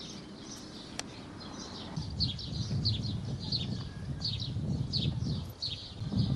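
A small bird calling, a quick series of short, high, falling chirps, about two or three a second, over a low rumble.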